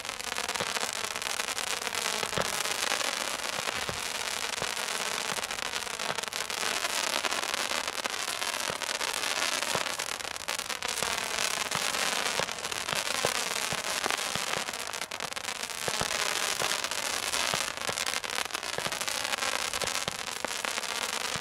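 Consumer fireworks going off in a dense, continuous crackle of many rapid small pops, with no long pauses.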